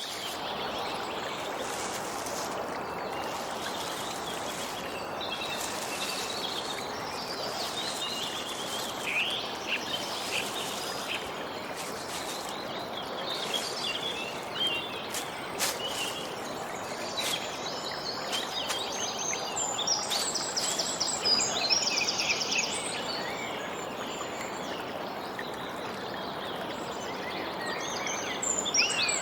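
Wild birds chirping and twittering over a steady rushing background noise, with quick trills that grow busier about two-thirds of the way through and again at the end.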